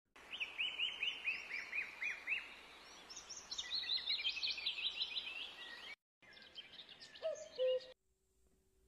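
Birds chirping: quick runs of short, repeated chirps over a steady background hiss, broken by a brief gap about six seconds in, with a lower call just before the sound stops about eight seconds in.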